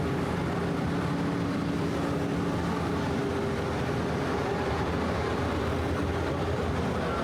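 Manhattan street traffic: a steady rumble of vehicles, with a low engine hum that fades out about three seconds in.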